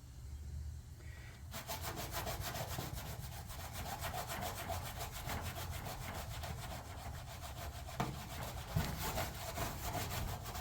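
Green Scotch-Brite pad scrubbing an aluminum race-car body panel with acetone, starting about a second and a half in with rapid back-and-forth rubbing strokes, working tire burn marks off the panel.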